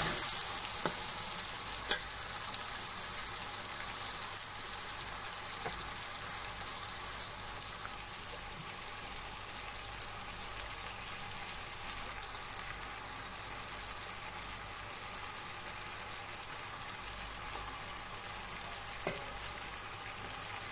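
Tomatoes, peas and pickled radish and carrot sizzling steadily as they fry in oil in a pot, with a single click about two seconds in.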